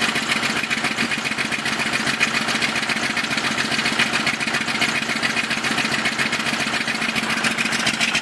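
1995 Dodge Ram 2500's 12-valve Cummins 5.9 L inline-six diesel running steadily with a rapid diesel clatter shortly after a cold start, still running rough and not yet firing on all six cylinders.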